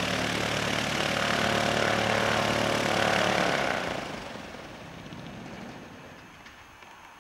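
Light aircraft's piston engine and propeller passing close by, loud for about three and a half seconds and then fading quickly as it moves away.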